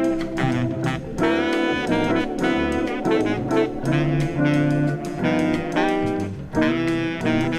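Instrumental bossa nova jazz: a saxophone plays melody lines over bass, drums and organ-guitar backing with a steady beat.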